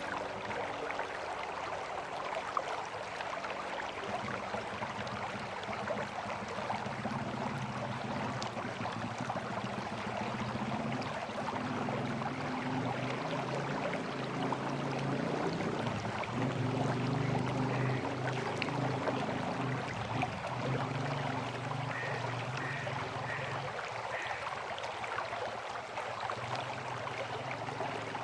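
River water flowing, a steady rushing noise with a low rumble that swells and fades in the middle. Four short high chirps come in quick succession a little over two-thirds of the way through.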